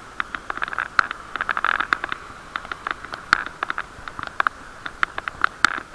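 Riding noise picked up through an action camera's waterproof housing on a moving bicycle: a muffled, steady rush of rolling and wind noise with many irregular sharp clicks and rattles, several a second, from the bike and camera mount being jolted over the road surface.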